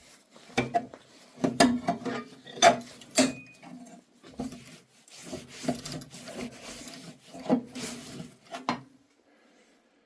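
A hand tool prying and scraping at the sheet-metal inner parts of a motorcycle exhaust silencer being taken apart, with irregular scrapes and sharp knocks, the loudest a few within the first four seconds; it stops about nine seconds in.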